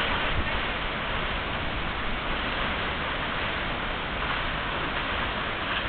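A waterfall's water rushing steadily, an even hiss with no breaks.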